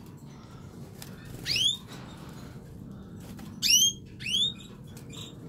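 Canaries in their cages giving short, rising call notes, three in all: one about a second and a half in, then two close together later, the first of these the loudest.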